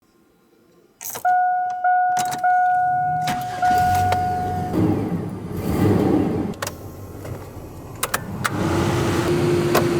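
A vehicle starting up: a few electronic chime tones, then the engine catches and runs with a low rumble. A steady tone joins near the end.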